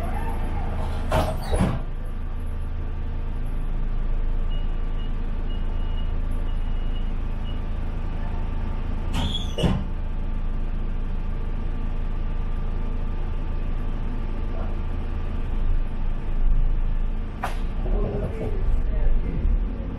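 Local train running, heard from inside the railcar: a steady low rumble with three short sharp sounds spread across the ride.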